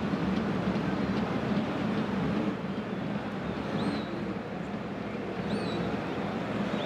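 Football stadium crowd noise: a steady din from the stands, with a few short whistles from fans about 4 and 5.5 seconds in.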